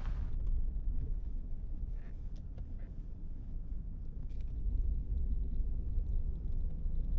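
Steady low road rumble of an overland vehicle driving on a logging road, with a few faint ticks scattered through it.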